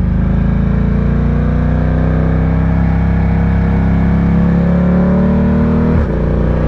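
Ducati Diavel 1260's V-twin engine pulling under acceleration, its pitch rising steadily for about five seconds, then dropping abruptly about six seconds in as it shifts up a gear.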